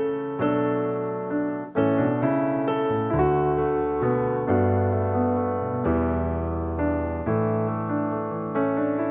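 Background piano music, a gentle tune with chords changing about once a second.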